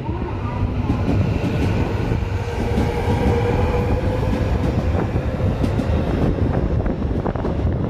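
JR West 207 series commuter train pulling away from the platform. The cars rumble past, the motor whine rises gently in pitch as it gathers speed, and the wheels click now and then over rail joints.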